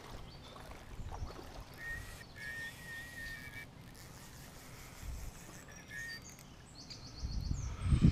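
Birds singing outdoors: a few short, clear whistled phrases, then a higher, rapid trill near the end, over a low rumble that builds in the last second or so.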